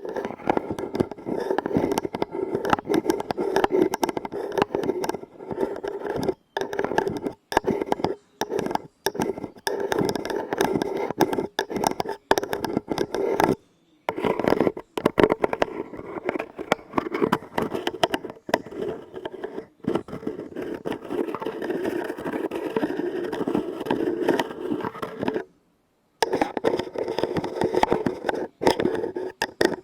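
Fast, close-miked fingertip tapping and scratching on objects, a dense patter of small clicks and scrapes. It stops briefly a few times, most clearly about 14 and 26 seconds in.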